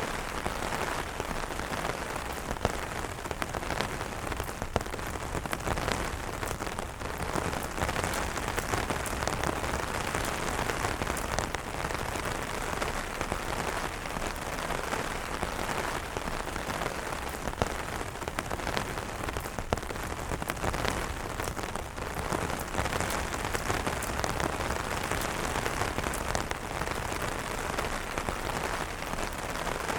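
Steady rain falling on umbrellas: a dense, even hiss of drops with many sharper single drop hits scattered through it.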